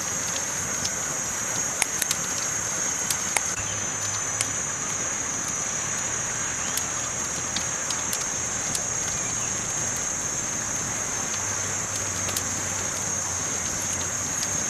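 Campfire crackling: a steady hiss with scattered sharp pops and snaps from the burning wood, more of them in the first few seconds.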